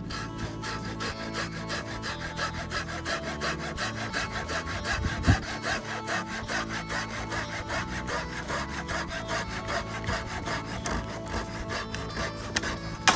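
A hand saw cutting through a piece of gathered firewood in quick, even back-and-forth strokes, about three a second. There is a louder knock about five seconds in and a sharp crack at the very end.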